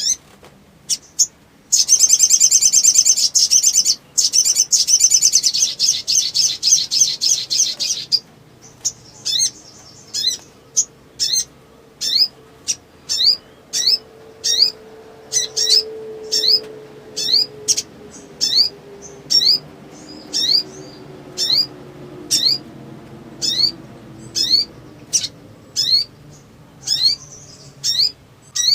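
Little spiderhunter (sogok ontong) calling. A few sharp notes give way to a fast, dense chattering trill lasting about six seconds. This breaks off into a long run of single sharp rising chip notes, one or two a second.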